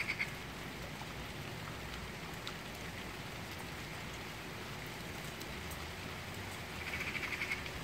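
Steady rain falling, a continuous even hiss. About seven seconds in, a short rapid trill of quick pulses sounds for under a second.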